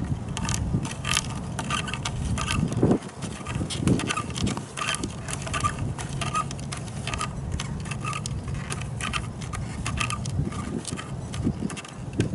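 Strong wind rumbling on the microphone, with a stream of short, irregular scratchy clicks over it.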